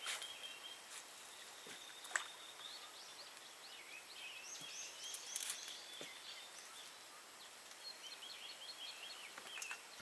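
Faint songbird calls and chirps over a quiet, steady background hiss, with a few soft clicks, the clearest about two seconds in.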